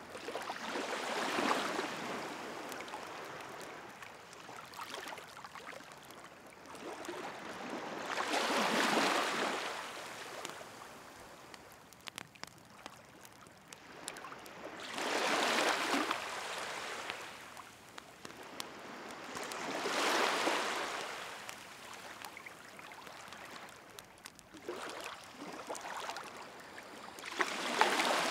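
Waves washing in on the shore, five slow swells of surf, with the faint snap and crackle of a campfire burning between them.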